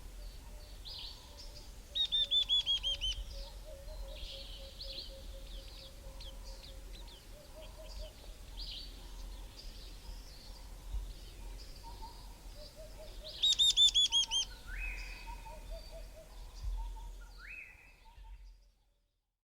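Several wild birds calling together in valley bushveld. A loud run of about eight quick, repeated, down-slurred notes comes twice, about 2 and 13.5 seconds in. Fainter chirps and low notes carry on beneath, and the sound fades out near the end.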